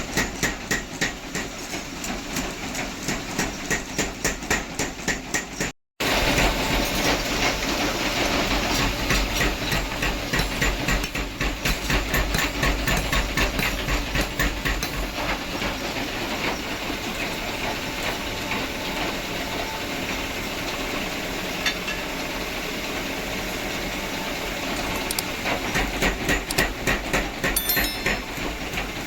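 Blacksmith work on iron: fast regular hammer-like knocks, about four a second, then a steady rasping hiss after a brief cut, with the quick knocks returning near the end.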